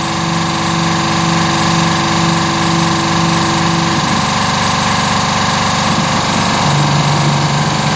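Air compressor feeding a desktop CNC mill's air assist, running steadily with a hiss of air. A pitched tone in the hum stops about halfway through, and a lower one starts near the end as the machine moves.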